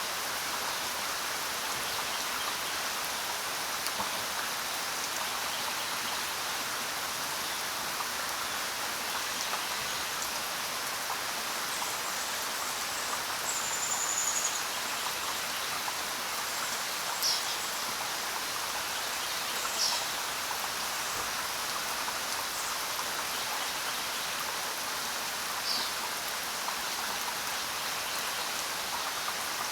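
Steady rain falling on the ground, an even patter throughout. A few short, high chirps stand out briefly over it about a third of the way in and again several times after.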